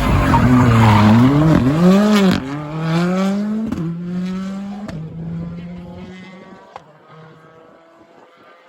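Rally car engine revving hard, its pitch climbing and dropping with quick gear changes and lifts, loud at first, then fading away as the car drives off into the distance.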